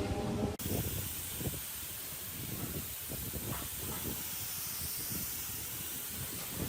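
A steady hiss that starts suddenly under a second in, with faint knocks and rustling beneath it.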